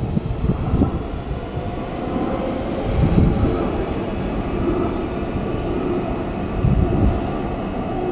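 Train running on the rails with a steady rumble, broken by several short high hisses or squeals from the wheels and track.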